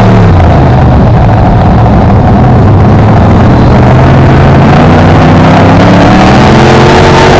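A BriscA F1 stock car's V8 engine heard from on board, very loud: the revs drop sharply right at the start, run low for a few seconds, then climb steadily from about halfway through as the car accelerates.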